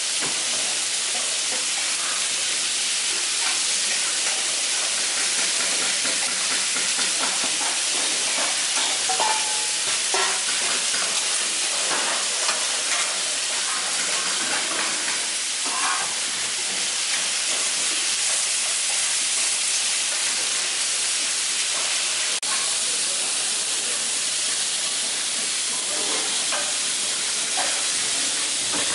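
Chicken pieces sizzling on a hot flat-top griddle, a steady hiss of frying and steam, with occasional light clicks and scrapes of metal tongs and a spatula turning them.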